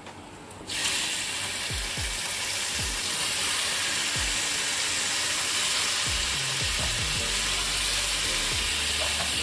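Chicken fillets sizzling in hot browned butter and olive oil with garlic and rosemary in a frying pan; the sizzle starts suddenly just under a second in as the meat goes into the fat, then holds steady.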